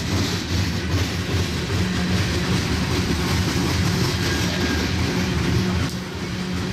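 Coal train's freight cars rolling past close by: a steady rumble of steel wheels on the rails.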